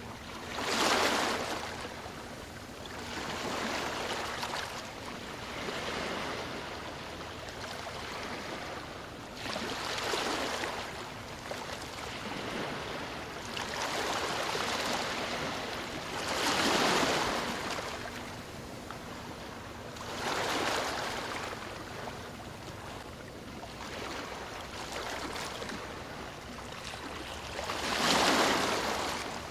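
Ocean waves breaking on a shore: surges of surf rise and fall every few seconds over a constant wash. The biggest breakers come about a second in, midway through, and near the end.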